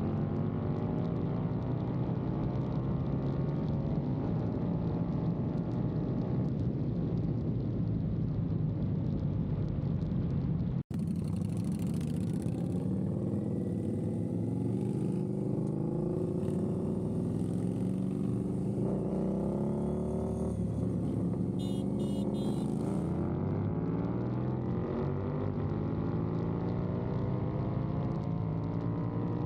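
Indian Scout motorcycle V-twin engines with slip-on exhausts running hard under acceleration, their note rising and falling again and again as the revs climb and drop through the gear changes. The sound cuts out for an instant about eleven seconds in, then carries on.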